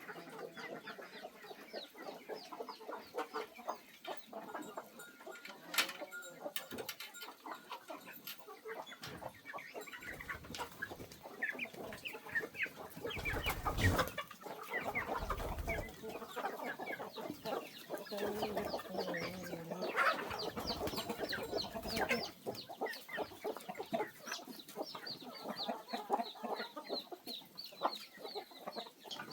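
Chickens clucking, many short calls overlapping throughout.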